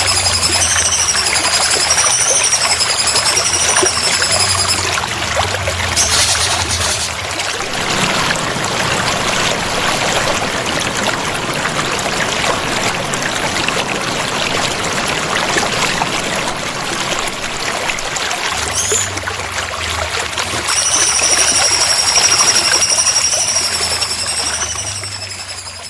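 Water trickling and splashing steadily. A high, wavering whistle rises and falls about once a second during the first five seconds and comes back near the end.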